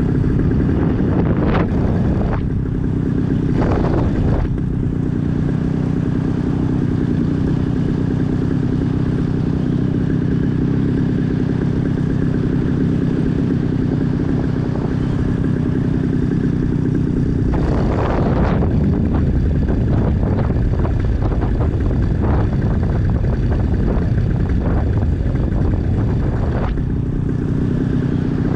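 Small aircraft engine running steadily, throttled back to idle to simulate an engine failure during the glide. A few brief whooshes of rushing air come and go over it.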